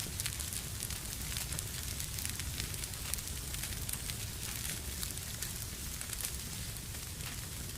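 Wood fire burning in a fireplace, crackling with many small irregular pops over a steady low rumble of the flames.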